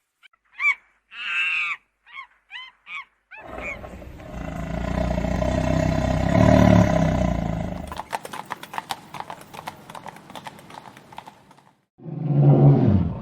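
Animal calls: a few short high calls, then one long, low, drawn-out call lasting about four seconds, followed by a fast run of clicks, and a low growling call starting near the end.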